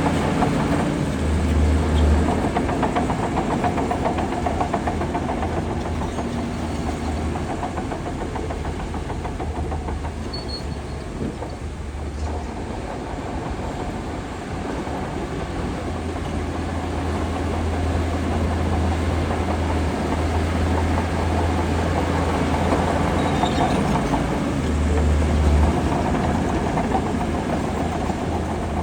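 Heavy diesel earthmoving machinery running, a deep steady engine drone with a metallic rattle over it; the engine briefly works harder twice, about two seconds in and near the end.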